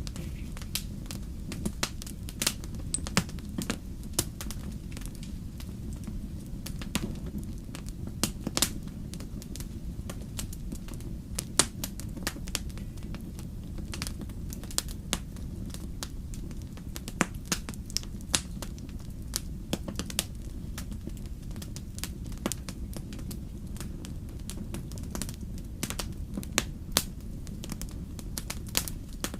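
Wood fire in a fireplace crackling: frequent irregular sharp pops and snaps over a steady low rumble of the burning.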